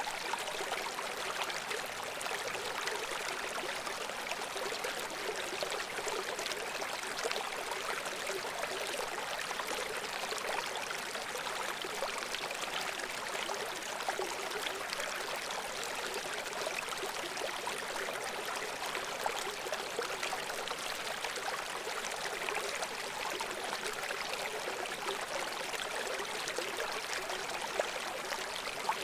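A babbling brook flowing steadily, the water gurgling and trickling over stones in an even, unbroken rush.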